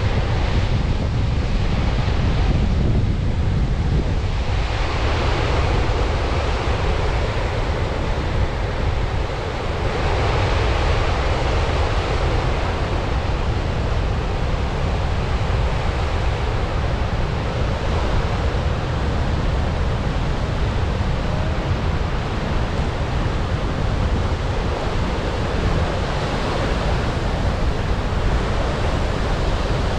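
Gullfoss waterfall on the Hvítá river, a steady rush of falling water, with wind buffeting the microphone.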